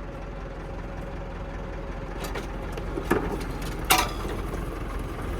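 Tractor engine running steadily and growing slightly louder, with a few sharp knocks in the second half, the loudest about four seconds in.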